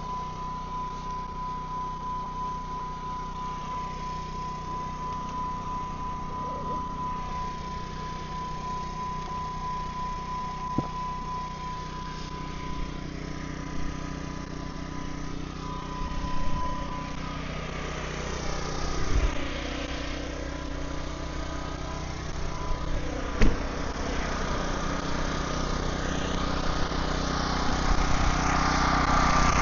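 An engine running steadily, with a thin steady whine through the first half and a few sharp knocks; it grows louder near the end.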